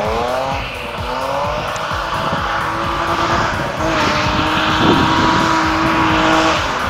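Straight-piped BMW E36 323i straight-six engine, its pitch falling in the first second, then holding a steady note for several seconds.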